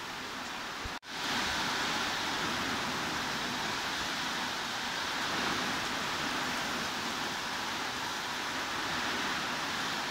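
Steady hiss of heavy rain used as white noise. About a second in it cuts out for an instant, then resumes slightly louder.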